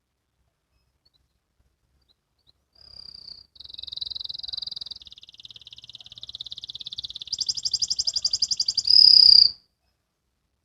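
Canary singing one song phrase of trills and rolls that grows louder, turning into a fast trill and ending on a loud high note before stopping abruptly.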